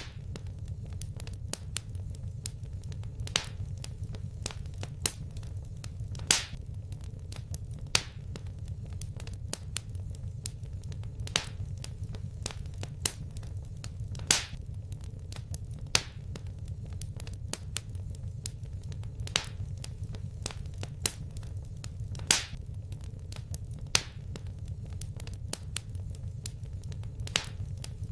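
Fireplace fire crackling: a steady low rumble with sharp pops and snaps about once or twice a second, a few of them much louder.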